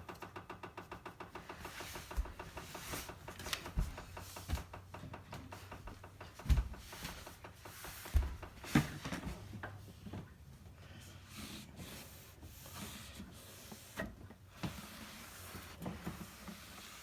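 Scrubbing and wiping on a dishwasher's surfaces: quick, even rubbing strokes at first, then uneven rubbing with scattered light knocks and thumps as things are handled.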